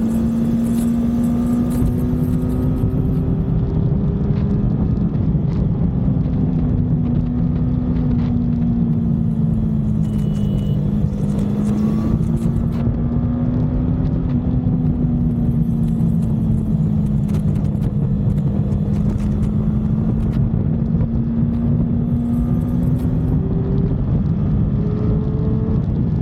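Triumph motorcycle engine running at a steady highway cruise, its pitch drifting slightly up and down with small throttle changes, over a dense low rush of wind and road noise.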